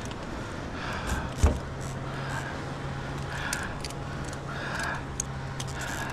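Water sloshing and splashing at a kayak, with one sharp knock about a second and a half in. A steady low motor hum, like a boat engine running, starts just before the knock.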